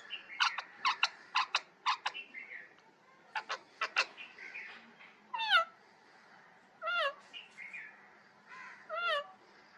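Pet parrot calling: a quick run of short, sharp squawks in the first four seconds, then three falling, whistled calls spaced about one and a half to two seconds apart.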